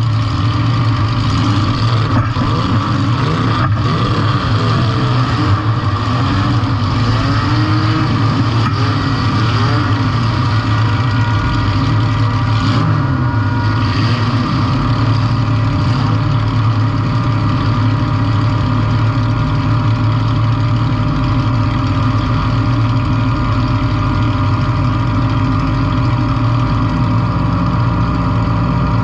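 Compact demolition-derby car's engine running steadily at a loud, even level, with a few faint knocks in the first fifteen seconds or so.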